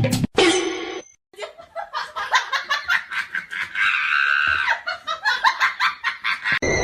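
Laughter, a long run of quick short ha-ha pulses.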